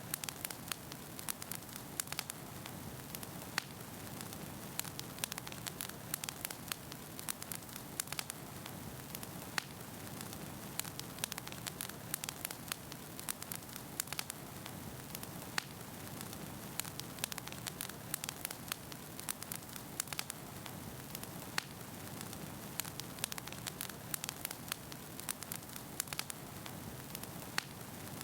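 Wood fire burning in a fireplace: a steady low rumble and hiss of flames with frequent sharp crackles and pops from the burning logs, several a second.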